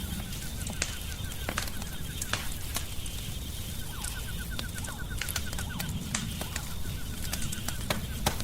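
Wood fire crackling: irregular sharp pops and snaps over a steady low rumble of the flames. Behind it, faint rapid runs of small repeated clicking notes, most noticeable in the middle of the stretch.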